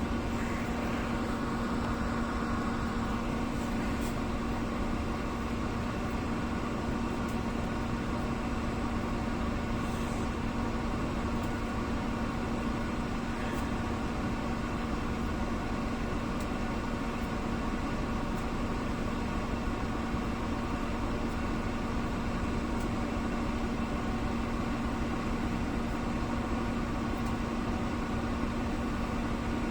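An engine idling steadily, a constant even hum that holds one pitch.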